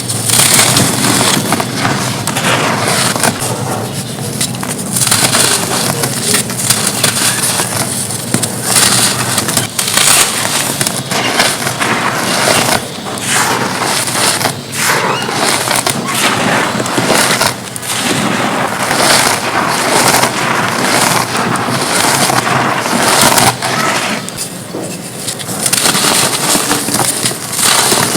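Gritty red dirt cones being crushed and crumbled, a continuous loud crunching and crackling with many small snaps and short pauses between squeezes.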